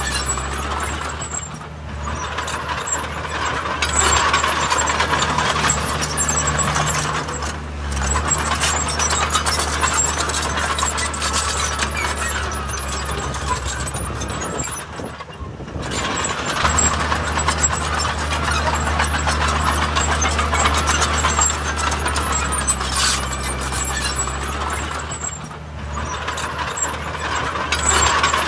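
Heavy diesel earthmoving machine running hard, its engine note building and easing off several times, with a rattling noise over it.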